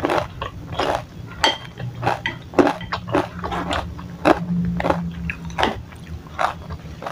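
Close-miked chewing of chewy tapioca balls (bakso aci), with about a dozen irregular mouth clicks and smacks over a steady low hum.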